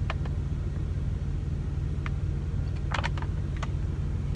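Steady low hum of an idling truck, with a few light clicks and taps scattered through it.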